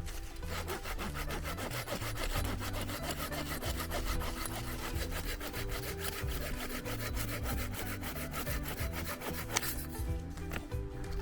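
Hand saw cutting through firewood in steady rasping strokes, over background music. The sawing stops briefly near the end.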